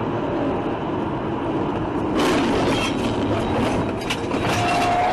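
Vehicle running on the road, with steady engine and road noise that grows louder about two seconds in. A steady, slightly wavering tone comes in near the end.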